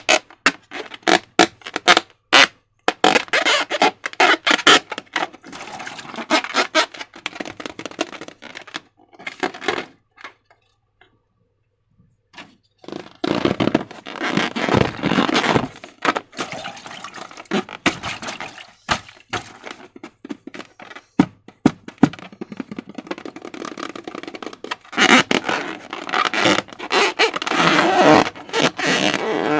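Slime being worked by hand, with sticky crackling and many sharp clicks and pops in dense runs. It goes almost silent for a few seconds about a third of the way in.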